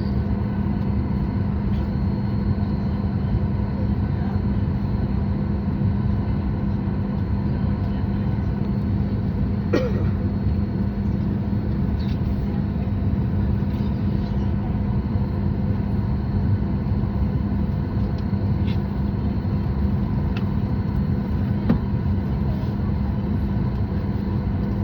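Steady drone inside the cabin of a Boeing 737 MAX 8 on the ground before departure: a constant hum over a low rumble, with a few faint clicks from the cabin.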